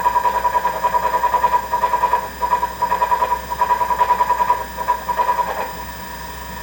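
Treadmill drive motor running with a rhythmic rumbling, about six pulses a second over a steady hum, which the owner traces to the motor because a brand-new front roller did not cure it. The rumbling stops near the end, leaving the hum.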